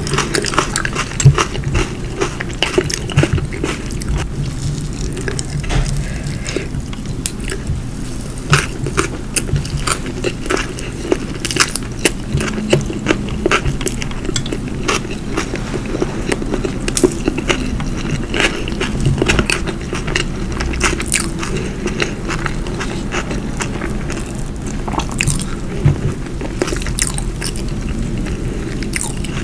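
Close-miked chewing of soft food, with irregular wet smacks and clicks of the mouth and lips throughout.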